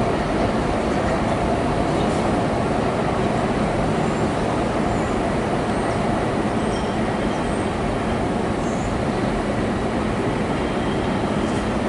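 Train running by with a steady rumble of wheels on rail.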